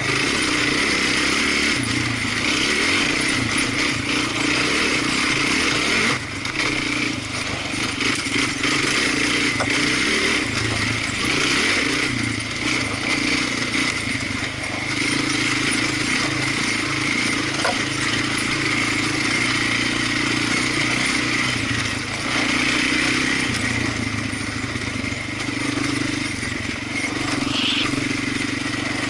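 Off-road vehicle engine running steadily while riding, its level dipping briefly about six seconds in.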